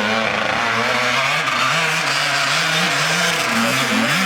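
Dirt bike engine revving unevenly, its pitch rising and falling several times as the throttle is opened and backed off.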